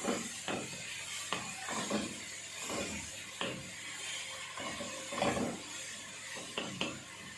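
A spatula stirring ingredients in a frying pan: irregular short scrapes and knocks, roughly one or two a second, over a faint hiss.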